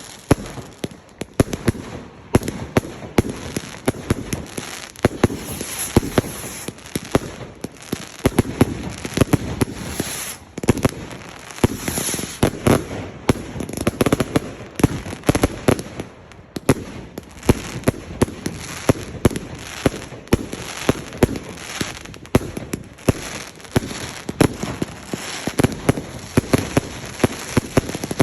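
Fireworks going off nonstop: a dense run of sharp bangs and crackles, many each second.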